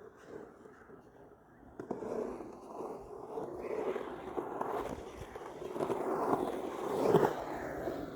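Skateboard wheels rolling with a gritty, crackling rumble: a sharp clack about two seconds in, then the noise swells and fades twice, loudest near the end.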